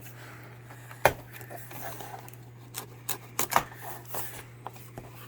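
Cardboard packaging being handled and opened: scattered sharp knocks and clicks, the loudest about a second in and several more close together around three seconds in, over a steady low hum.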